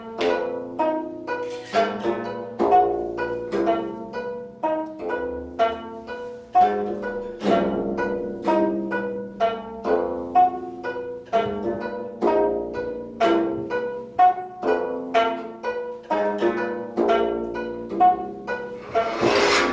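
Korean plucked zither music: a steady run of plucked string notes, several a second, each ringing briefly, with a brief noisy rush near the end.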